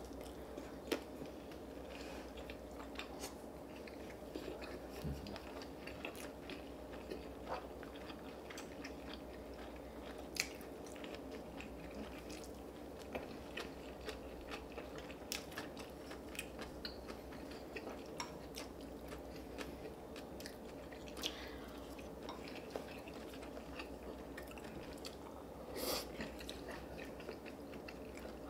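Close-up eating sounds: chewing and biting food, with many small scattered clicks and taps over a steady low hum.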